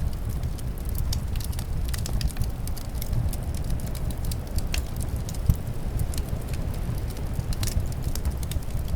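Wood fire crackling, with frequent sharp pops and one louder pop about five and a half seconds in, over a steady low rumble of winter wind.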